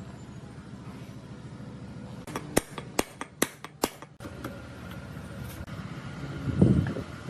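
About six sharp metallic clinks in quick succession a couple of seconds in, then a low thud near the end, over a steady low hum.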